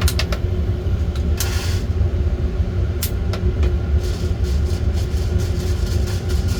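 Coffee-roasting equipment running with a steady low drone. Scattered sharp clicks come near the start and again about three seconds in, and a quicker patter of faint ticks fills the last two seconds.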